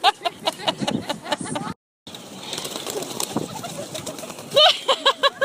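A crowd of birds giving short, repeated calls around food held out by hand. The sound drops out completely for a moment about two seconds in, and the calls come again near the end.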